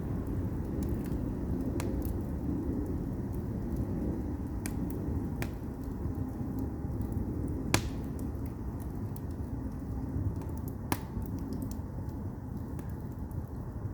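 Firewood burning in an agungi, a traditional Korean wood-fired firebox: a steady low rumble of the fire with scattered sharp crackles and pops, the loudest about eight seconds in.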